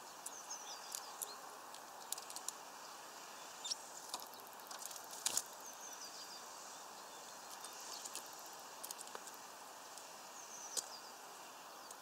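Small birds feeding at a window feeder: scattered sharp clicks and taps of beaks pecking, the loudest cluster about midway. A few faint, high, short chirps come in quick descending runs three times, over a steady background hiss.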